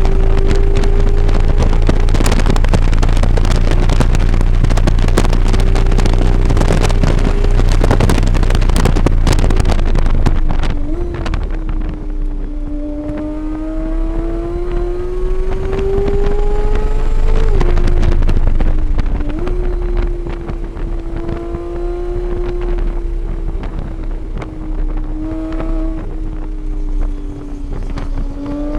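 Vehicle engine on a race track, heard onboard: running hard at high revs under heavy wind noise for about the first ten seconds, then quieter, its pitch climbing slowly and dropping sharply a few times as it shifts gear.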